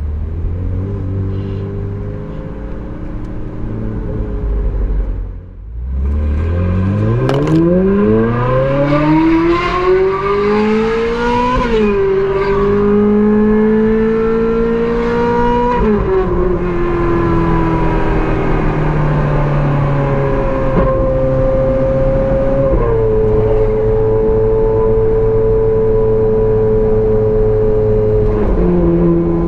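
Ferrari 458's naturally aspirated V8 pulling hard, its pitch climbing steeply for several seconds, with quick upshifts about 12 and 16 seconds in. After that it settles to a steady cruise, with two smaller gear changes near the end.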